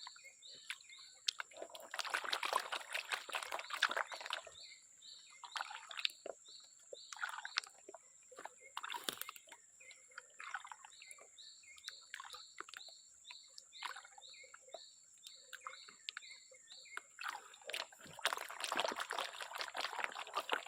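Water sloshing and trickling in two spells, a couple of seconds in and again near the end, over short chirps repeating a few times a second and a steady high insect drone.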